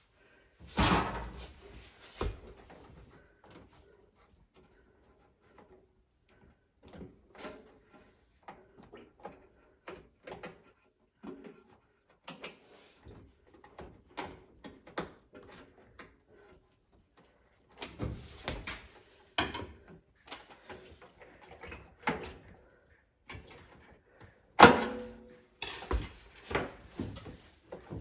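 Irregular knocks, clicks and rubbing of hands and tools working on a front-loading washing machine's door seal, with louder bangs about a second in and near the end.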